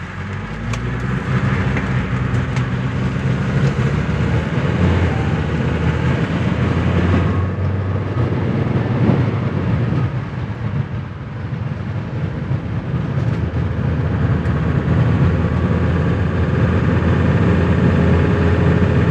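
A 1985 Mercedes-Benz 300D turbo diesel's five-cylinder engine pulling the car along with road noise. Its pitch climbs as the car accelerates at the start, eases off about seven seconds in, and rises again near the end.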